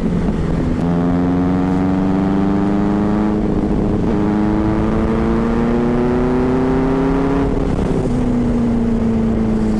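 Superbike engine under way, its note climbing steadily, dipping briefly about four seconds in, climbing again, then falling back at about eight seconds as the throttle eases.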